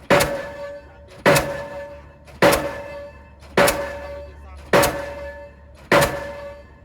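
Delmag D46-32 diesel pile hammer striking a concrete pile, six sharp blows a little over a second apart. Each blow leaves a metallic ring that dies away before the next.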